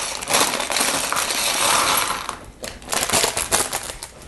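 Plastic bag of Lego pieces crinkling as it is handled and opened for about two seconds, then a few sharp clicks of small plastic pieces in the second half.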